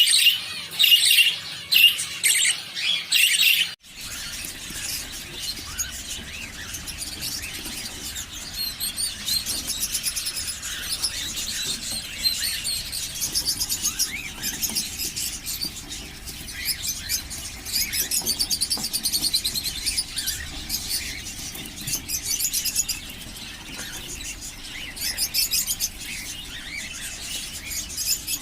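Small pet parrots chirping and chattering continuously in rapid high twitters and squeaks. The sound cuts off suddenly about four seconds in and goes on at a lower level after the break.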